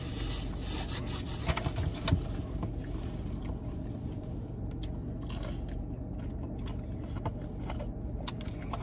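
A person chewing battered fried pollock, with scattered crackly clicks of the crisp batter. A steady low hum from the car's air conditioning runs underneath.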